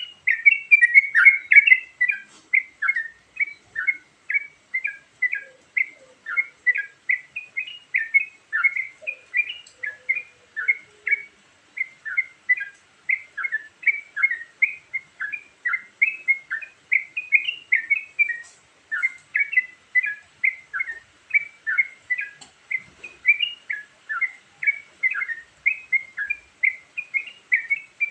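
Yellow-vented bulbul (trucukan) song: an unbroken run of short, bubbly chirping notes, about three a second.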